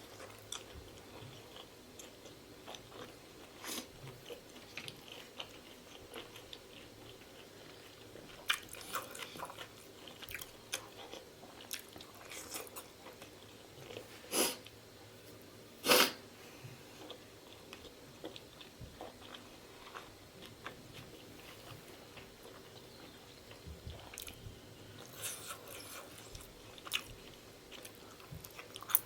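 Close-miked chewing of pork momo dumplings: soft, irregular wet mouth clicks and smacks, with two louder mouth sounds a little after halfway.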